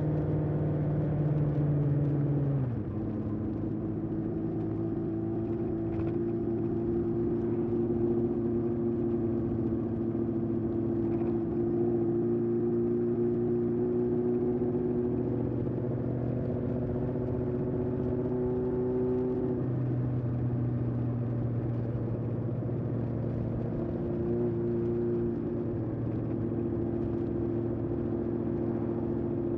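1981 Honda CB750F's air-cooled inline-four running through a period Yoshimura exhaust while riding. The engine note drops sharply about three seconds in and again around twenty seconds, and holds fairly steady in between.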